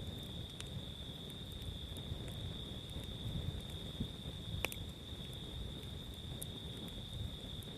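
Campfire crackling with a low rumble and a few sharp pops, the loudest about halfway through. A steady high-pitched insect trill runs underneath.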